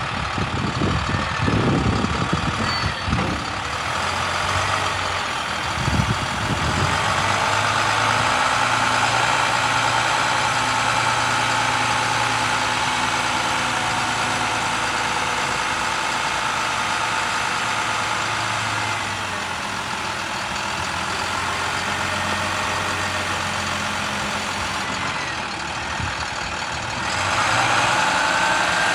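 Maxxforce DT diesel engine of a utility truck running steadily, with a whine over it that gets louder and rises a little near the end.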